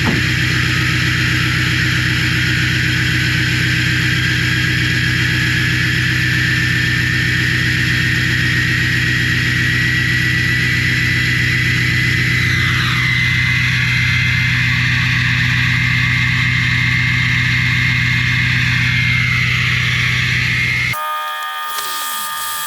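Emissions-deleted 2012 Ford F-350's 6.7 Powerstroke turbodiesel V8 running at cold-engine idle through a 4-inch exhaust with a high-flow muffler, loud and steady, with the KC turbo's whistle slowly rising in pitch, dipping briefly about halfway and falling back shortly before the end. About a second and a half before the end the sound changes abruptly to something quieter with several steady tones.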